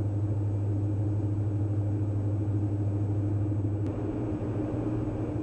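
Steady low drone of the Diamond DA42 NG's twin Austro AE300 turbo-diesel engines in cruise flight.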